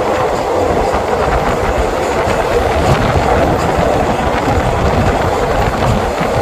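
A train passing close by: a loud, steady noise of wheels and running gear on the track.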